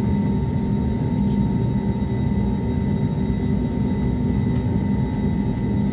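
Steady cabin noise inside an Airbus A320neo: a deep rumble of engines and airflow with several steady hums over it, even in level throughout.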